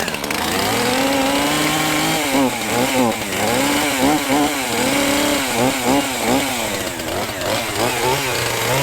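Two-stroke chainsaw cutting through a fallen tree log. It runs at high speed for about two seconds, then its engine pitch dips and recovers again and again as the chain works through the wood.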